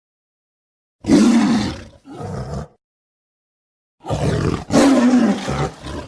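Two rough, gravelly demonic roars voiced by a woman as a sound effect. The first starts about a second in and breaks briefly in the middle; the second starts about four seconds in and lasts about two seconds.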